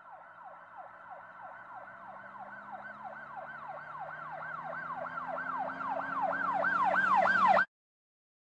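Emergency vehicle siren sounding a fast repeating wail, about three falling sweeps a second, growing steadily louder, then cutting off abruptly near the end.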